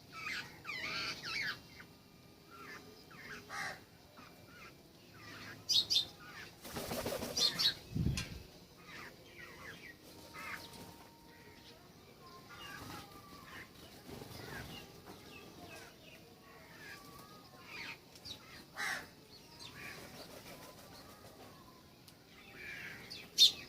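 Wild birds at a feeder calling with short, scattered chirps and calls, and a loud rushing burst about seven seconds in, like wings flapping as a bird takes off or lands.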